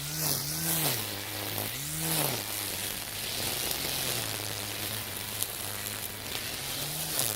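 Makita 40Vmax cordless brush cutter running with a nylon-line Flexiblade head, cutting dense weeds. The electric motor's hum rises and falls in pitch several times, mostly in the first couple of seconds and again near the end, over a steady hiss of the line slashing through grass.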